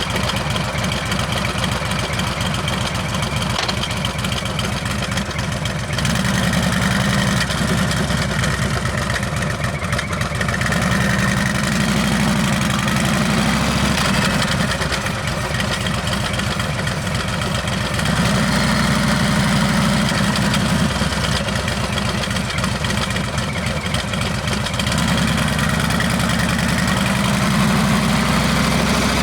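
Harley-Davidson Heritage Classic's Milwaukee-Eight V-twin running through a Rinehart exhaust. The engine note swells into louder spells a few seconds long four times, as the throttle is opened and eased back.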